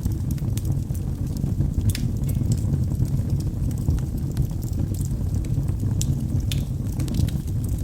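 Wood logs burning in a fireplace: a steady low rush of flame with scattered sharp crackles and pops, a few louder pops about two seconds and six and a half seconds in.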